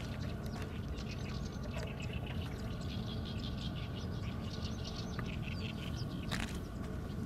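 Small birds chirping repeatedly in quick, high twitters, over a steady low rumble.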